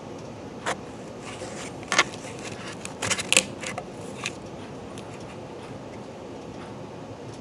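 Steady rain hiss during a thunderstorm, with a few sharp, irregular taps; the loudest cluster of taps comes about three seconds in.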